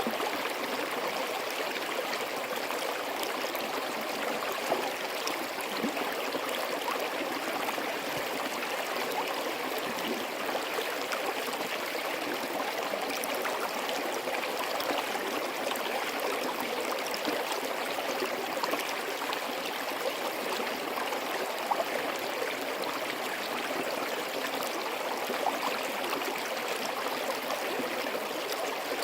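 Forest stream flowing steadily: a continuous rush and babble of running water, with now and then a slightly louder splash.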